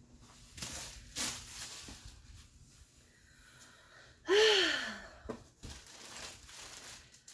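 Rustling as clothes are handled, then about four seconds in a short breathy sigh whose pitch falls away.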